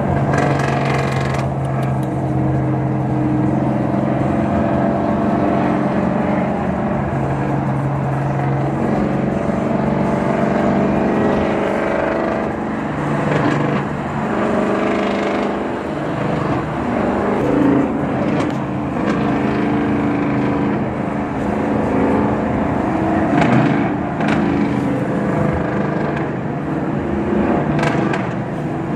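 Ford Mustang engine running loudly, holding a steady note for several seconds, then rising and falling with the revs.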